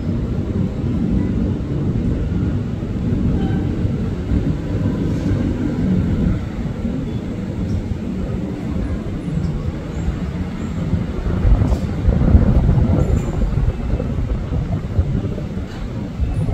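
Electric commuter train running on the line, a steady low rumble that swells about twelve seconds in.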